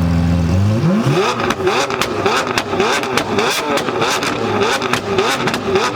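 A car engine is revved up hard from a steady idle, then revved repeatedly in quick rising-and-falling blips, with sharp cracks and pops in between.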